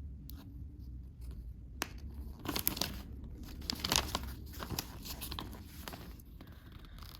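Packaging being handled: irregular crinkling and tearing, densest in the middle few seconds.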